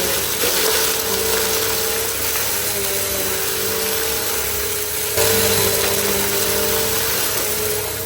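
Bissell CleanView vacuum cleaner running steadily: a loud motor whine over a rushing air noise, getting louder about five seconds in.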